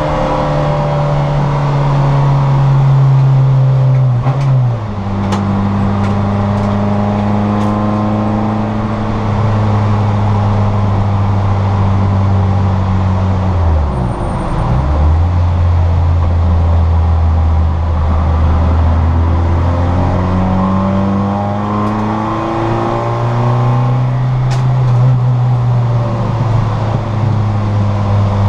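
Citroën Saxo VTR's four-cylinder engine running hard at racing speed. The engine note drops with a gear change about four and a half seconds in, dips sharply and climbs back near the middle, and rises again in the later part.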